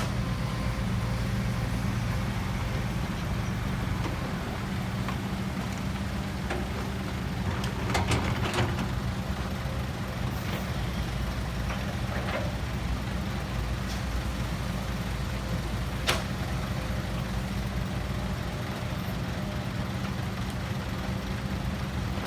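Heavy diesel machinery running steadily with a low, even engine hum. A cluster of sharp clanks comes about eight seconds in, and a single sharp knock follows near the middle.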